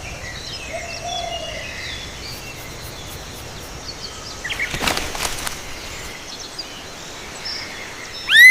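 Outdoor nature ambience: a steady background hiss with scattered faint bird chirps and a brief louder rustle about five seconds in. Near the end a loud animal call starts, rising and then falling in pitch.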